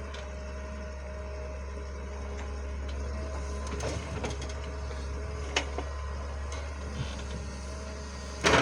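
A machine running steadily with a low hum and a faint whine, with a few light clicks and knocks and a louder clank near the end.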